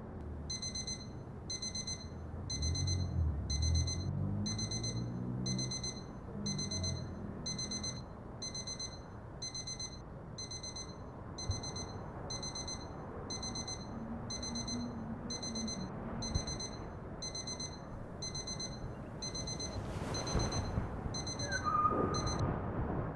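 Smartphone alarm beeping over and over, about two high beeps a second, and stopping near the end as it is switched off by hand.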